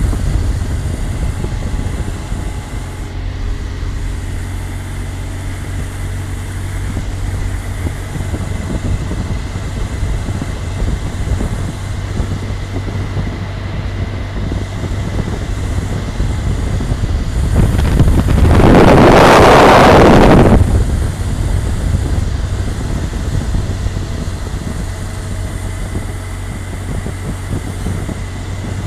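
BMW R 1200 GSA boxer-twin motorcycle running at road speed, a steady low engine drone under wind rushing over the microphone. Just past the middle a loud rushing swell builds and falls away over about two seconds.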